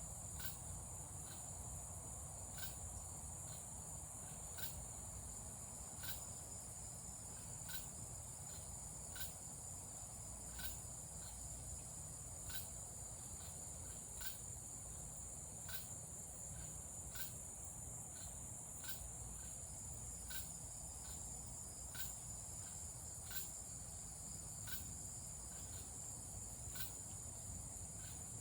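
Insect chorus of crickets and cicadas: a steady, high-pitched trill with a short, sharp chirp recurring about every second and a half.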